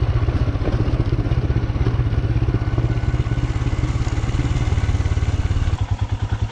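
Royal Enfield Himalayan single-cylinder motorcycle engine running steadily at low revs, with some clatter, as the bike rolls down a loose rocky trail without braking. Its beat slows slightly near the end.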